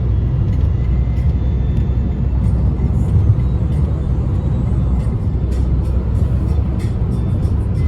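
Steady low rumble of a moving road vehicle, with scattered light ticks and rattles above it.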